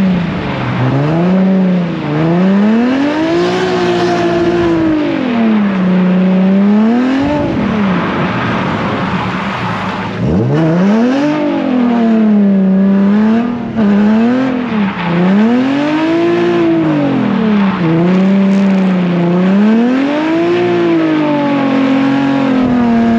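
Drift car's engine revving up and falling back over and over, roughly every two seconds, as it is driven hard through a drift; about ten seconds in the revs drop sharply and climb again.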